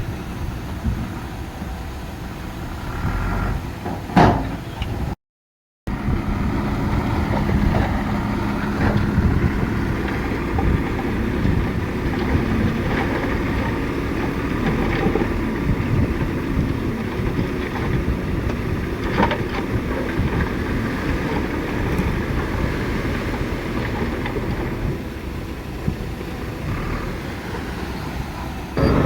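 Heavy diesel earth-moving machinery running with a steady engine drone, with a sharp clank about four seconds in and a brief cut to silence just after it.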